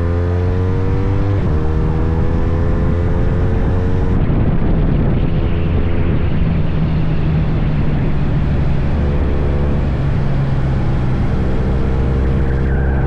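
Motorcycle engine pulling hard through the gears: its pitch climbs, drops once at an upshift about a second and a half in, and climbs again. After a few seconds it settles into a steady cruise with a rush of noise over it.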